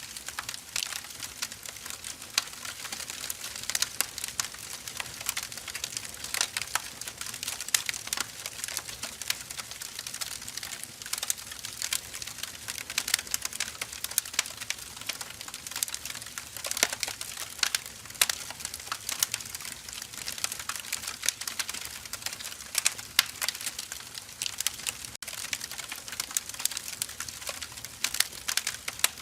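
Firewood burning: a steady crackle of small irregular pops and snaps over a soft hiss, with a few sharper pops now and then.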